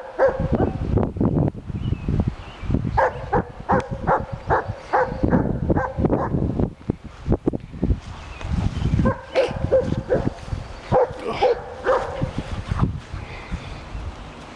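Playing dogs barking and yipping in quick runs of short, high-pitched barks, in several bursts.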